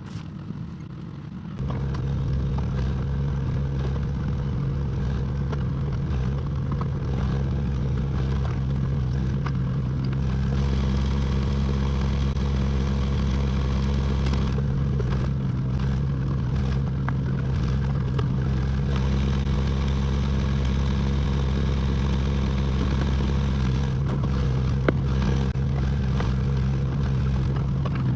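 Excavator's diesel engine running steadily, a low droning note with some clatter. It comes in suddenly and much louder about a second and a half in, and there is a single sharp knock near the end.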